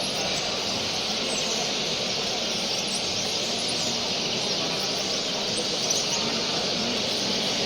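Many finches chattering at once, a steady, dense mass of high chirps and twitters.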